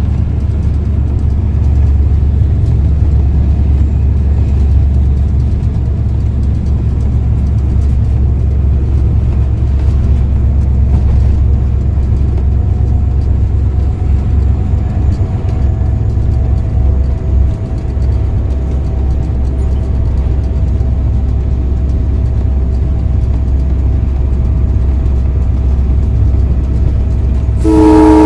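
A GMU-30 diesel locomotive running at speed, heard from inside its cab: a loud, steady low rumble of engine and running gear. Right at the end, the locomotive's horn starts to sound.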